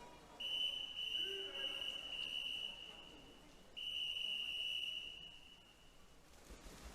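Referee's whistle blown in two long, steady blasts of about two and a half seconds each, with a short gap between: the long whistles that call backstroke swimmers into the water and then to their starting position.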